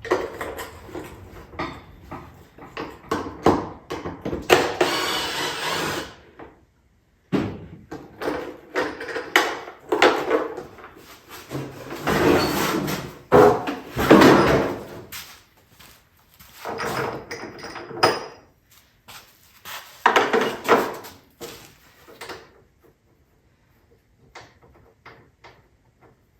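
Hand work on parts: a string of knocks and clatter with several longer scraping stretches of a second or two, going quieter and sparser near the end.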